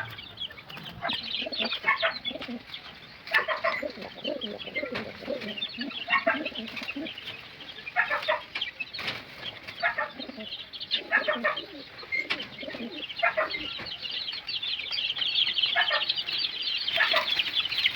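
Racing pigeons flapping their wings in short bursts every second or two as they are handled and moved into a cage, with chickens clucking.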